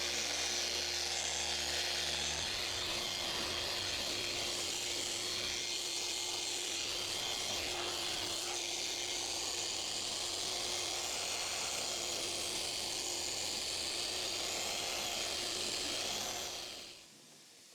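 Rupes LHR Mark III 15 random orbital polisher running steadily on speed setting 4.5, its yellow foam pad working polish over fiberglass gel coat in a one-step polish. Near the end it shuts off and the whir dies away.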